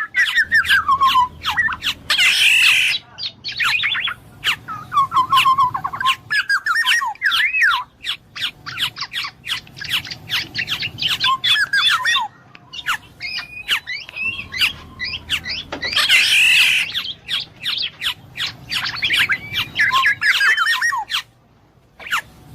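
Black-naped oriole (kepodang emas) calling in a busy run of short whistled and gliding notes, broken twice by a harsh, rasping squawk, once about two seconds in and again about sixteen seconds in.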